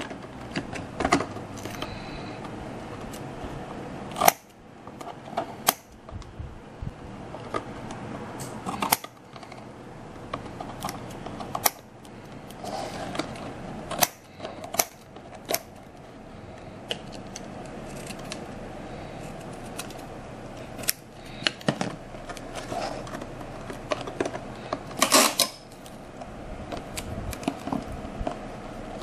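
Hands cutting and handling model-making materials: irregular scissor snips, clicks and taps, with a few louder sharp snaps spread through.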